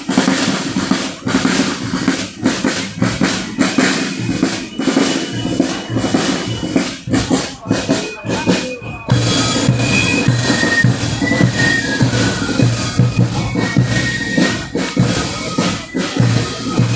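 Marching band playing a march: drums beat alone at first, and about halfway through a melody on wind instruments joins over the drumming.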